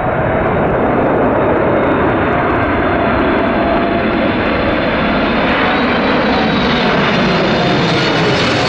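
A large jet airliner passing close with its engines running, a loud, steady rush of noise with a faint whine that grows brighter and sharper as the aircraft approaches.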